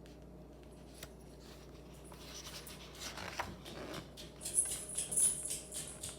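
Faint rustling and small clicks of a paper book being handled: a few soft ticks, then a thicker run of dry rustles about two seconds in, loudest with a crisp high rustle near the end.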